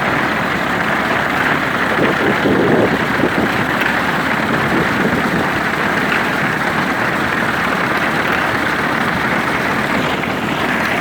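Tractor engine running steadily while a grain binder works behind it, a dense, continuous mechanical clatter, a little louder about two seconds in.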